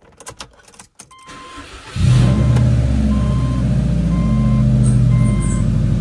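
2007 Subaru Legacy 2.5GT's turbocharged 2.5-litre flat-four being started: a few clicks, then the starter cranking, and the engine catches about two seconds in. It settles into a loud idle through an aftermarket 'fart can' muffler.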